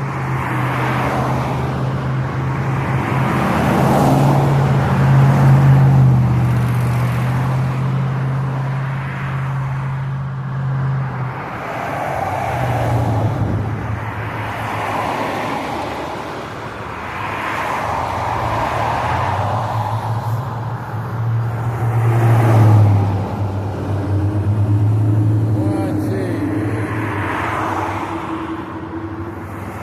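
Mini bike engine running while being ridden. Its steady drone drops and rises in pitch a few times, under a rushing noise that swells and fades.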